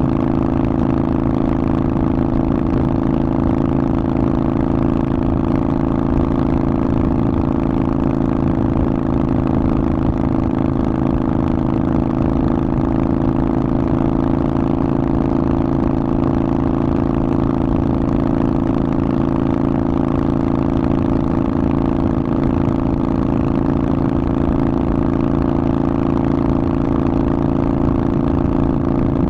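Harley-Davidson Forty-Eight's air-cooled 1200 cc V-twin running through a Vance & Hines aftermarket exhaust, holding a steady engine speed with no change in pitch.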